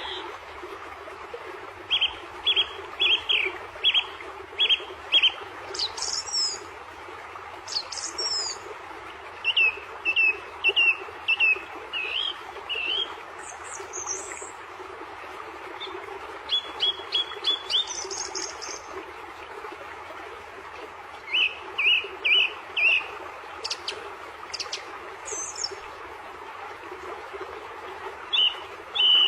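A bird chirping in quick runs of short, sharp notes, each run about two to four seconds long with pauses between, over a steady background hiss.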